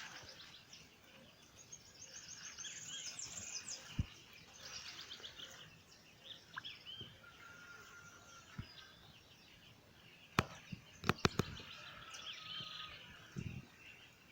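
Several wild birds singing, with fast trilled songs, chirps and a couple of held whistled notes. A few sharp clicks come close together about ten seconds in.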